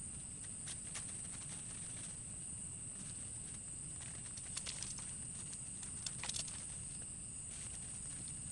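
Faint outdoor ambience: a steady high-pitched whine with low rumble beneath, and scattered light clicks and taps, a small cluster about four and a half seconds in and another about six seconds in.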